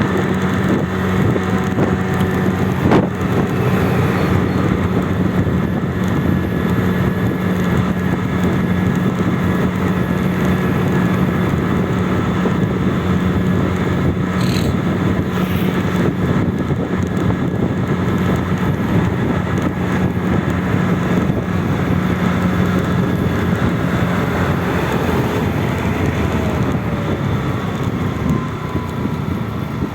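A motor vehicle driving, its engine a steady hum under road and wind noise, with the engine note dropping away about six seconds before the end.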